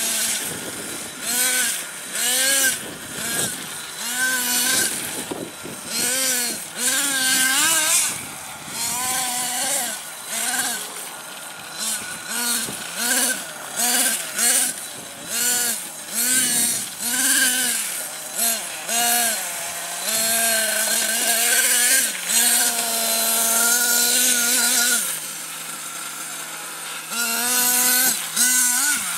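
Nitro RC monster truck glow engine revving in quick surges about a second apart, each rising and falling in pitch. Past the middle it holds steady at high revs for several seconds, then drops back to a lower, steady idle near the end.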